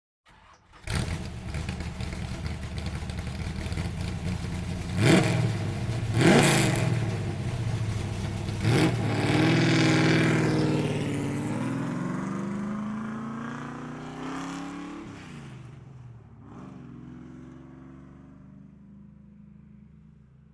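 A car engine comes in suddenly and runs, revved sharply three times about five, six and nine seconds in. It then winds down in pitch and slowly fades away.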